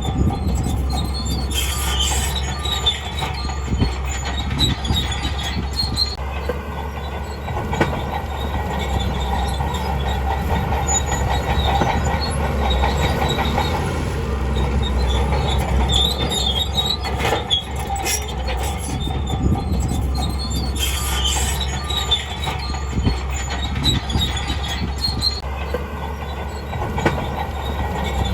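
Crawler bulldozer working, its diesel engine running under a steady low rumble while the steel tracks clank and squeal.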